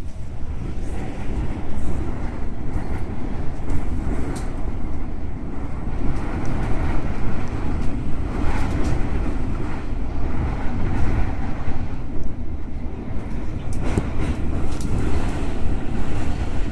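Musashino Line electric train running on the rails: a steady low rumble of wheels on track, with scattered sharp clicks over it.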